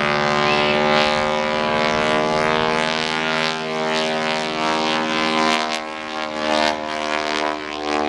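Propeller-driven aerobatic airplane's piston engine droning steadily in flight, with wind buffeting the microphone in the second half.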